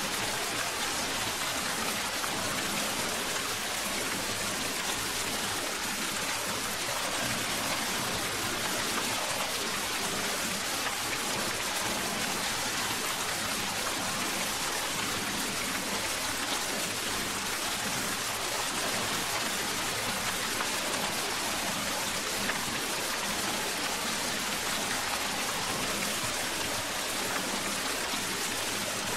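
Steady rain falling, an even hiss with no breaks and no thunder.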